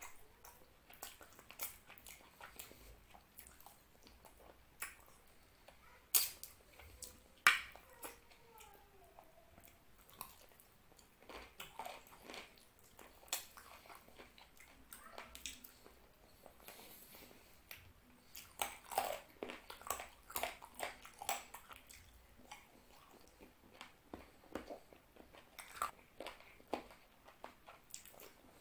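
Close-miked chewing of mutton curry and rice, with wet lip smacks and sharp mouth clicks scattered throughout, two louder smacks about six and seven and a half seconds in and a quick run of them around twenty seconds in.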